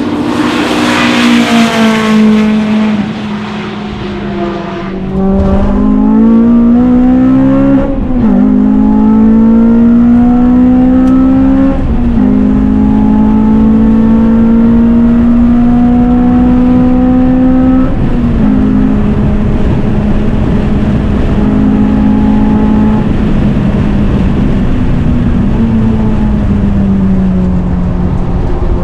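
Honda Civic Type R race-prepped four-cylinder engine: the car passes at speed with a falling pitch, then the engine is heard pulling hard through the gears, its note climbing and dropping back at upshifts about 8, 12 and 18 seconds in, and easing off near the end.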